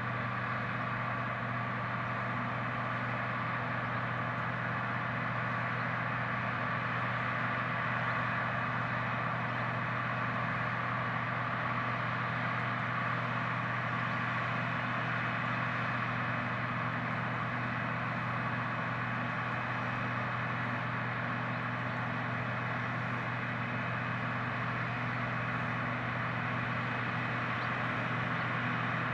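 Steady drone of heavy farm machinery or a truck engine running at a constant speed, with a low hum and a higher whine that never change.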